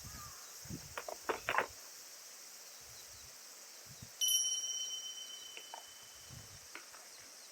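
A few quick knocks and clicks, then about four seconds in a single bright bell-like ding that rings out and fades over a couple of seconds, over a steady high hiss.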